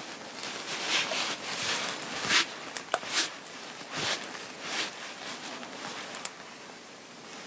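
Close handling of clothing and small accessories: irregular swishes of fabric rustling, with a few sharp little clicks.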